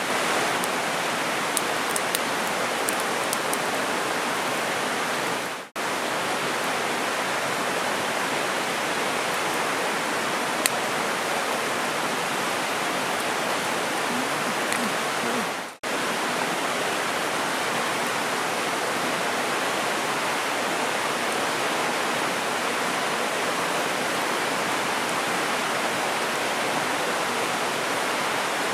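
Mountain river flowing steadily, a dense even rush of water, dropping out suddenly for a moment twice. A few faint ticks sound over it in the first few seconds.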